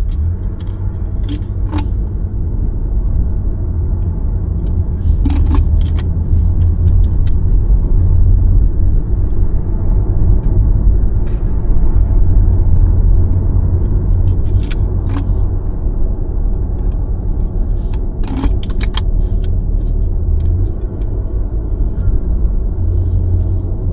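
Steady low rumble of a car being driven, with road and engine noise. A few short, sharp clicks or rattles come scattered through it, several close together about two-thirds of the way through.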